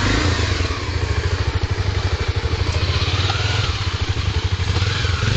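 Honda XR250 Tornado's single-cylinder four-stroke engine running steadily under way, with a fast, even pulsing beat over a hiss of noise.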